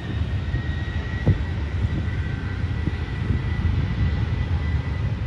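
Jet airliner's engines rumbling loudly as it passes, with a thin high whine that rises slightly and then holds steady.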